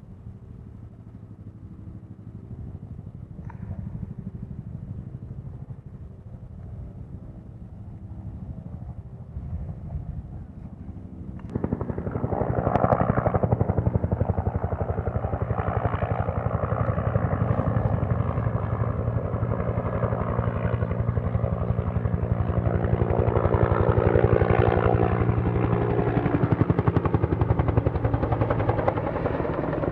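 Firefighting helicopter's engine and rotor running, at first steady and fairly low, then jumping suddenly much louder about a third of the way in, with a rapid even rotor beat, as it comes close.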